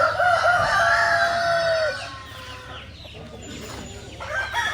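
Rooster crowing, one long call lasting about two seconds that tails off downward, with a second crow starting near the end, over the clucking of many other chickens.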